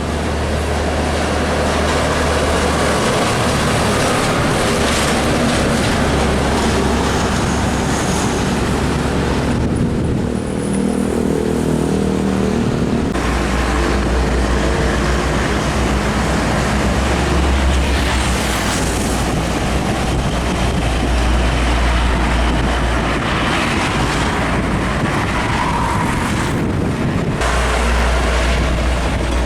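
Heavy diesel trucks running on a road with steady traffic noise, their low engine hum rising and falling as they pass; the sound changes abruptly a few times.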